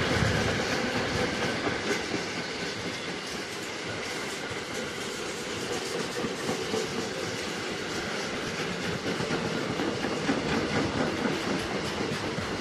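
Freight train of loaded double-deck car-carrier wagons rolling past, with a steady rumble and the wheels clattering over the rail joints.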